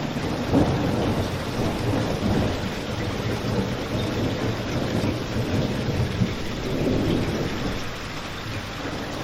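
Steady rain ambience layered with a crackling fireplace, over a deep, continuous rumble that swells and eases every few seconds.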